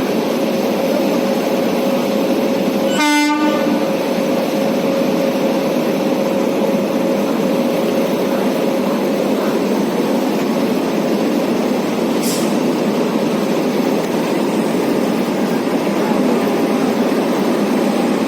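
Indian Railways WAP7 electric locomotive and its train running by with a steady rolling rumble. About three seconds in there is a short horn blast, and a steady tone underneath fades out about halfway through.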